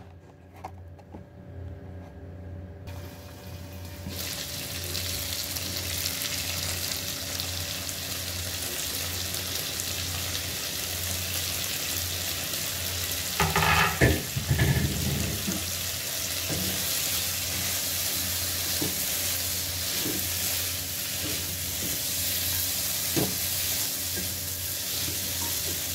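Chicken and chickpea masala sizzling in a nonstick pan, with a spatula stirring it now and then. The sizzle grows louder about four seconds in, and there is one louder clatter about halfway through.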